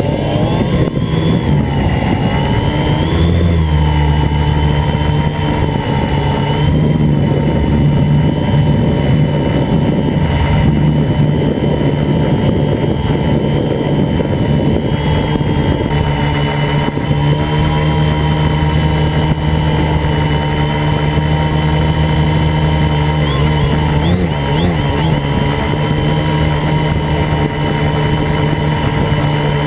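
Camera drone's motors and propellers whining loudly and continuously. In the first few seconds the pitch bends up and down as the motor speeds change, then it holds mostly steady, with a brief wobble about 24 seconds in.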